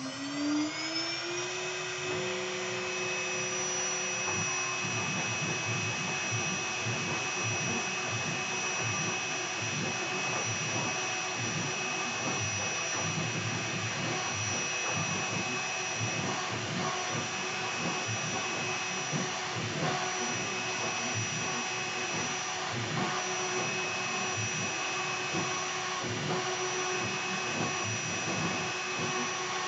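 2.2 kW air-cooled CNC router spindle finishing its spin-up with a rising whine, then holding a steady high whine. A 60-degree V-bit carves a shallow photo V-carve, adding a continuous rough, chattering cutting noise.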